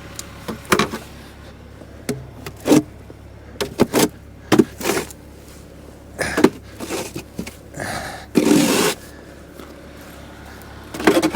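Snow shovel scraping and pushing snow, a string of short scrapes and knocks, with one longer scrape about eight and a half seconds in.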